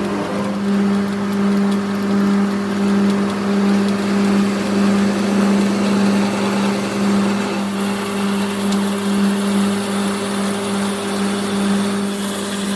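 A machine running steadily with a constant low hum that swells gently about once a second.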